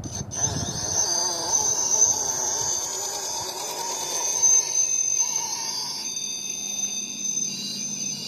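Electric drive motor and gearbox of a radio-controlled crawler tow truck whining as it drives. There is a steady high-pitched whine over a lower tone that wavers up and down.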